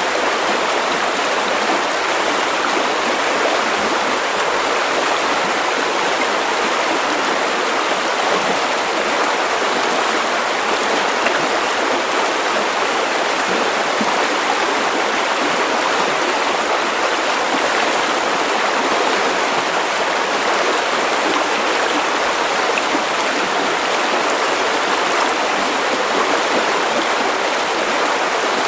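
River water running over stones: a steady, unbroken rushing and babbling of a stream.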